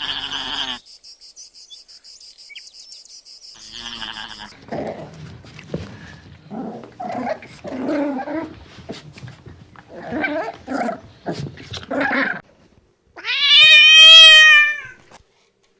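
A cat meowing once, loudly, near the end: one long call that rises and then falls. Before it comes a run of shorter, rougher animal calls.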